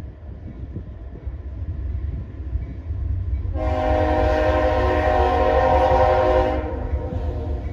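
Nathan K5HL five-chime air horn on a Norfolk Southern diesel locomotive sounding one long blast of about three seconds, starting about halfway in, over a steady low rumble of the approaching train.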